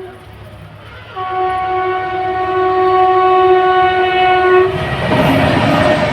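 Locomotive horn sounding one long held blast, starting about a second in and lasting about three and a half seconds, then giving way to the loud rolling noise of a goods train passing.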